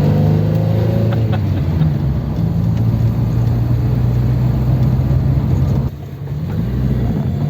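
1955 Ford 100E's side-valve four-cylinder engine pulling the car along, heard from inside the cabin. The revs rise in the first second or so and then hold steady. About six seconds in the sound drops away briefly and then picks up again.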